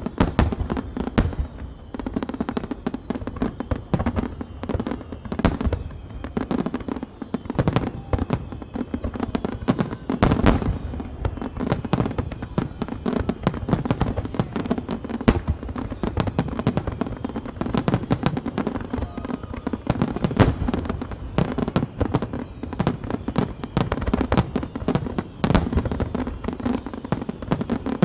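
Starmine fireworks: a dense barrage of aerial shells bursting in quick, irregular succession, many overlapping bangs a second over a continuous low rumble.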